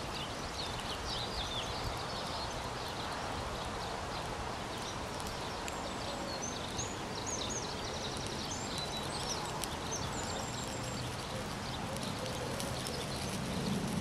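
Outdoor ambience: a steady rushing background with small birds chirping and twittering over it, and a few faint ticks.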